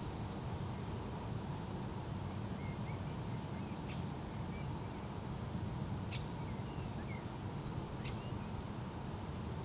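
Steady outdoor background noise, mostly low, with a few faint short high bird chirps and peeps scattered through it.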